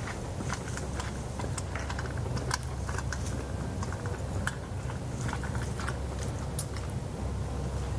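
Red-bellied woodpecker pecking and chipping at wood: an irregular series of sharp taps as it excavates a nest cavity in a tree, over a steady low rumble.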